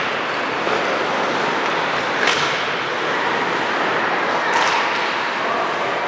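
Basketball game in a gym: steady crowd and court noise with two sharp smacks, a little over two seconds in and again about four and a half seconds in.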